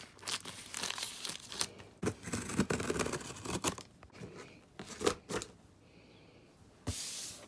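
Shipping packaging being torn and opened by hand: irregular tearing, rustling and scraping, with a loud sustained tearing rasp near the end.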